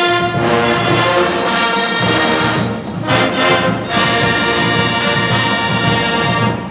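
Marching band brass section playing loud, long held chords, breaking off briefly a little under three seconds in.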